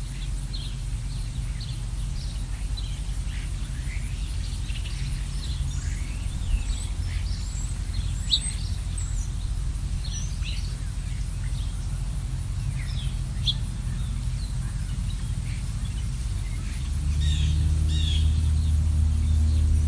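Small songbirds chirping and twittering in short high calls over a steady low rumble. About 17 seconds in, a louder low, steady-pitched hum comes in.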